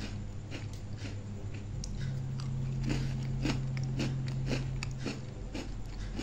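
A person chewing a bite of lemon cream sandwich biscuit: short, irregular chewing clicks, a few each second, over a steady low hum.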